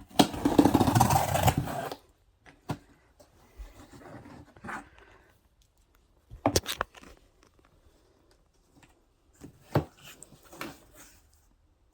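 A cardboard shipping box being opened: a loud ripping noise for about two seconds, then scattered knocks, clicks and rustles of cardboard and packaging being handled.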